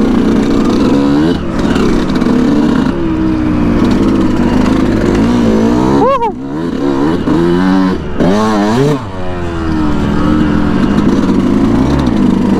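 Yamaha YZ125 single-cylinder two-stroke dirt bike engine running hard, its revs rising and falling sharply with the throttle, most steeply about six seconds in and again around eight to nine seconds.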